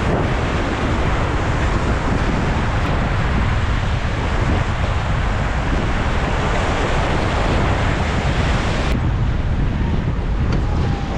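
Loud, steady rush of whitewater in a river rapid, with wind buffeting the microphone. About nine seconds in, the sound abruptly turns duller, with less hiss.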